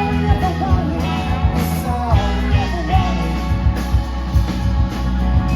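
Live rock band playing with drums, bass and guitar in a steady beat, with a melody line that bends up and down through the first three seconds.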